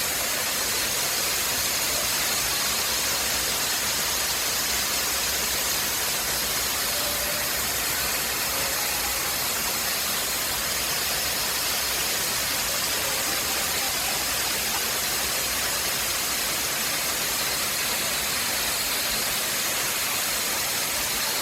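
Tall waterfall, water falling in a steady, even rush with no change in level.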